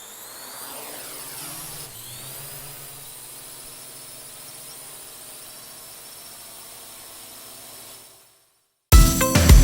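A high mechanical whine with tones that fall in pitch early on, as of something passing, settling into a steady hiss; it cuts out shortly before the end and loud music with a beat starts.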